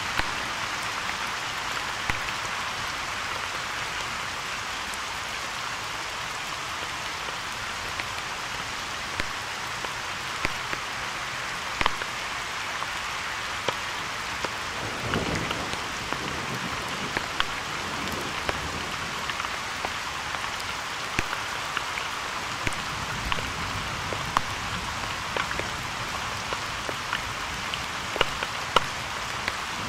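Steady rainfall hissing, with many sharp ticks of drops striking close to the microphone. A brief low rumble comes about halfway through.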